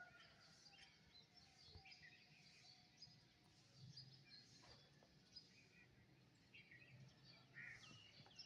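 Faint birdsong: short chirps and calls scattered throughout, with a low hum underneath.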